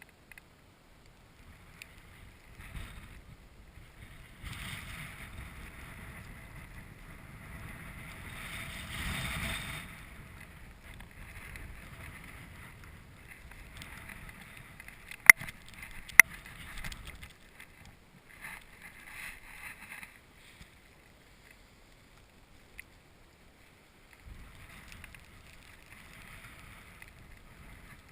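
Wind gusts buffeting the microphone, rumbling and rushing in several waves that rise and die away. Two sharp clicks about halfway through are the loudest sounds.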